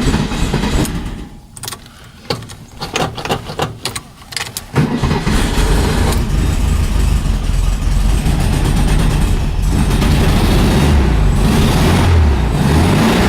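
1971 Volkswagen Beetle's 1600cc air-cooled flat-four on a freezing cold start. It dies off about a second in, and a few seconds of clicks and knocks follow. It catches again about five seconds in and keeps running, its pitch rising and falling unevenly near the end. This is a cold engine struggling to idle, with the choke not yet holding it, and it is close to stalling.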